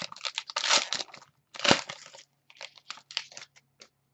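A sports card pack's wrapper being torn open and crumpled by hand: crinkling, with two louder bursts in the first two seconds, then lighter rustles and crackles that fade out.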